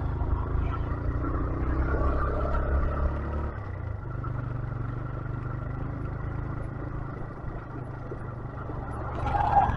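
Motorcycle riding over a rough road: a steady low engine and road rumble that eases off about three and a half seconds in, with a short louder sound near the end.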